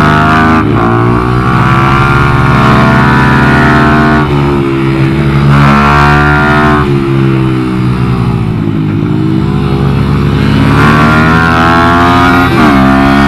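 Benelli TNT135 minibike's single-cylinder four-stroke engine running hard on track, heard onboard. Its pitch rises and drops several times with throttle and gear changes.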